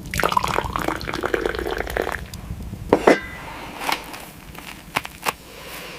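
Liquid being poured into a vessel for about two seconds, followed by a few separate knocks and clinks.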